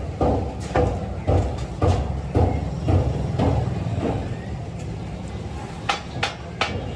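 Steady low machine hum with regular dull knocks, about two a second, and a few sharper, ringing strikes near the end.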